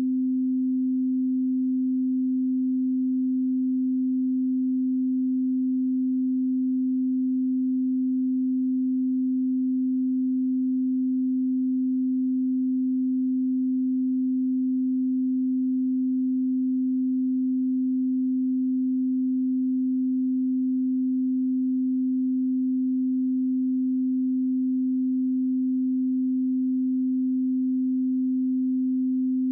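Steady 258 Hz pure sine tone, a single unchanging low hum with no overtones: an audio calibration test signal.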